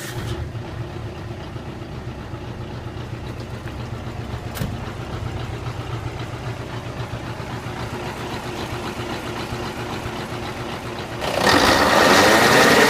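Nissan Diesel Big Thumb truck's V8 diesel engine idling steadily, then revved up hard about eleven seconds in.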